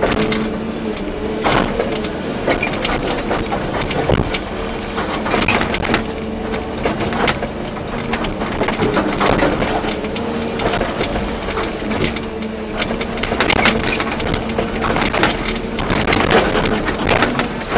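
Volvo EC240B excavator's diesel engine running with a steady hum under frequent irregular knocks, scrapes and rattles from the machine working.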